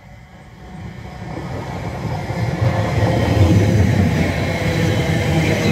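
Passenger train approaching and running past close by along the platform: wheels on the rails growing steadily louder over the first three seconds, then staying loud as the carriages go by.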